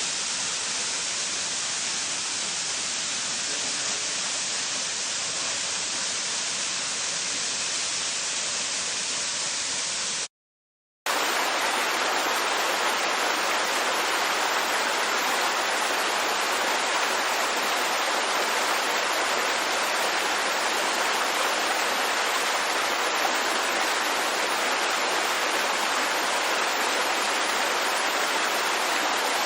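Steady rush of falling water, like a waterfall or cascade. It breaks off for a moment of silence about ten seconds in, then resumes a little louder and brighter, as a different water recording.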